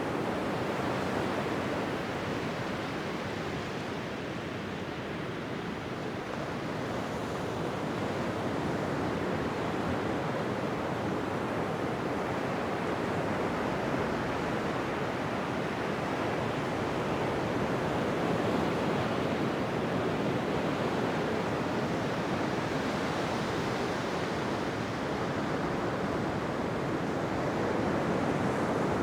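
Ocean surf washing onto a beach: a steady rush of breaking waves that eases slightly a few seconds in and swells gently again later.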